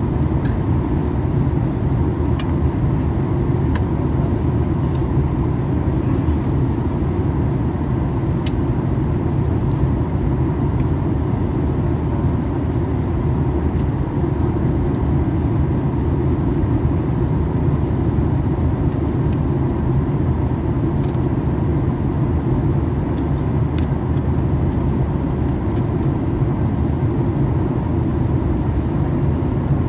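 Steady in-flight cabin noise inside a Boeing 737 MAX 8: a deep rumble of airflow and CFM LEAP-1B turbofan engines, with a faint steady whine above it.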